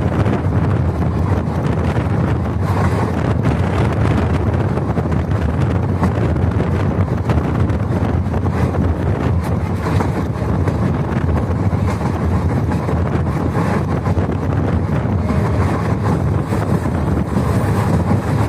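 Indian Railways passenger train running steadily, a continuous rumble with wind buffeting the microphone.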